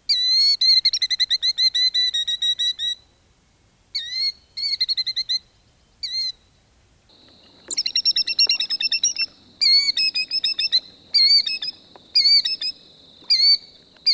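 Killdeer flight alarm calls: shrill, sharply inflected whistled notes repeated in fast rattling runs, then spaced out into single notes. From about seven seconds in, a steady background hiss and hum sits under the calls.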